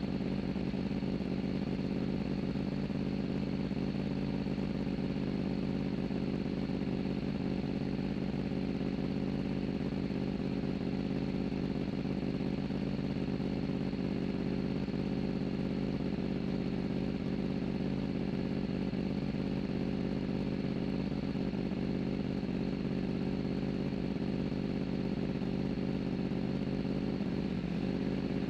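Superbike race motorcycle engine idling steadily, heard through a camera mounted on the bike.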